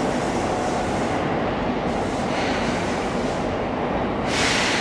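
Seibu 20000 series electric train standing at a station platform, its equipment giving a steady hum. A short burst of hissing comes near the end.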